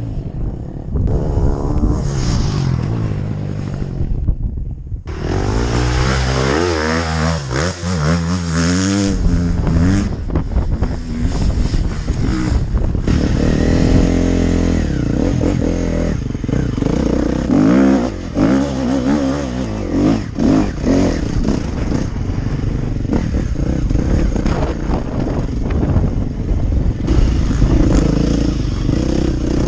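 Off-road motorcycle engine being ridden, its revs rising and falling repeatedly through the gears, with wind buffeting the microphone.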